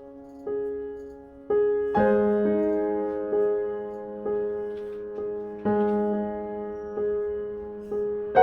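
Slow, gentle solo piano music: single notes and chords struck about once a second, each left to ring and fade.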